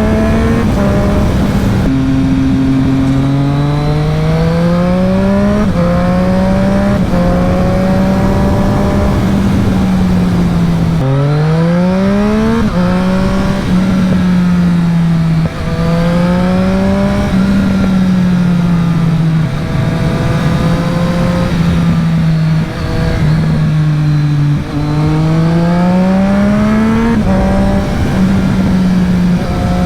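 2020 Triumph Street Triple RS's 765 cc inline-three engine through a LeoVince LV One EVO slip-on exhaust, heard from the riding bike. The engine note climbs in pitch under acceleration several times, with short breaks and drops in pitch at the gear changes and steady stretches of cruising between.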